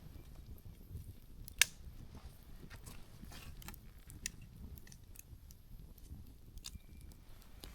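Open wood campfire crackling, with scattered sharp pops of burning firewood; one loud snap about a second and a half in. A low, steady rumble runs underneath.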